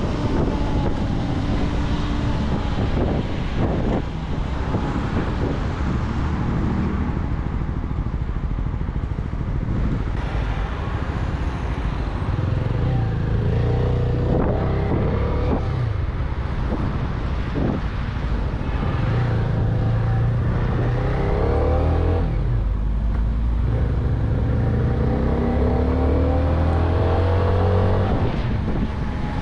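CFMoto NK250 single-cylinder engine through its stock exhaust, accelerating on the road: its pitch climbs again and again and drops back at each gear change, over steady wind rush. The engine is new and being run in.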